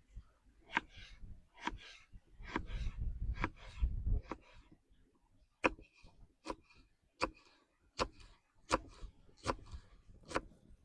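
A steady series of sharp taps, about one every three-quarters of a second, with a low rumble between about two and four seconds in.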